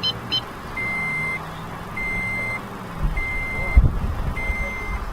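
Scion tC's dashboard warning chime beeping steadily, one high beep a little more than once a second. There is a dull thump a little before the end.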